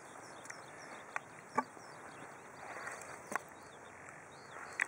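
Faint open-air ambience with small birds chirping in the distance, and a few soft clicks and taps.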